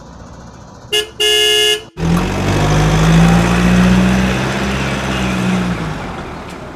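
A car horn gives one short honk about a second in. Then comes the loud running of a vehicle engine with road noise, which slowly fades away.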